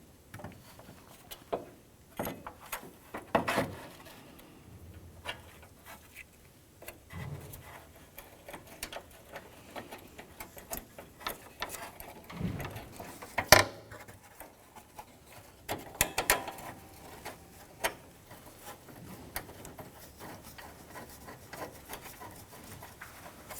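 Intermittent light clicks, taps and rubbing of metal parts as a replacement hood latch is fitted into place and its 10 mm bolts are started by hand. A single sharp click about halfway through is the loudest sound.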